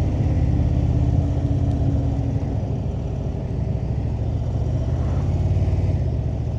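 Indian cruiser motorcycle's V-twin engine running steadily at road speed, a deep, even rumble with road and wind noise above it.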